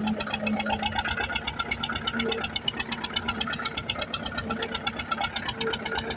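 1989 HMT 2511 tractor's two-cylinder diesel engine running under full load, pulling a seven-tine cultivator through soil. The engine knocks in a rapid, even beat.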